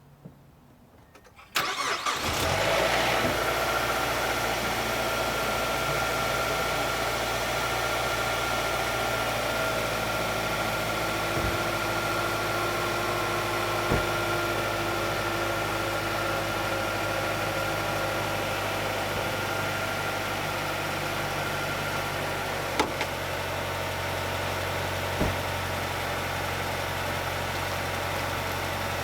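Cold start of a 2006 Mazdaspeed6's turbocharged 2.3 L DISI four-cylinder: the engine catches about a second and a half in, then idles steadily. Under the idle is a pronounced click from the timing-chain area, which the owner takes for the variable valve timing actuator and timing-chain noise covered by Mazda's SSP-87.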